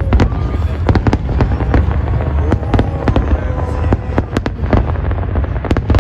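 Fireworks going off: many sharp bangs and crackles in quick, uneven succession over a steady low rumble.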